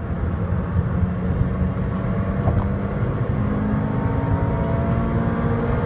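The 1.8-litre 2ZZ-GE four-cylinder engine of a 2003 Toyota Matrix XRS, heard from inside the cabin, pulling at full throttle in third gear. Its pitch climbs steadily as the revs rise from about 4,500 past 6,000 rpm, more steeply in the second half.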